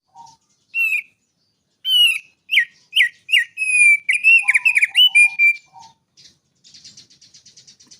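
Small songbird singing a run of sharp whistled chirps and quick down-slurred notes for about four seconds, followed near the end by a quieter, fast buzzy trill.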